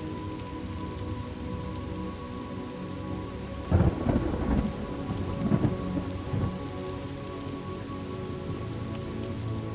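Steady rain falling, with a sudden thunderclap nearly four seconds in that rumbles on in a few waves for a couple of seconds.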